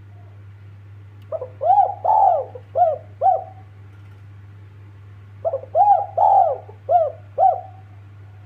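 Spotted dove cooing: two phrases of about five short arching coo notes each, a couple of seconds apart, over a steady low hum.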